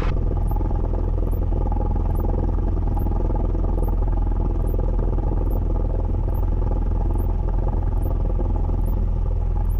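Cessna 172N's four-cylinder Lycoming piston engine running steadily at low taxi power, a constant deep drone.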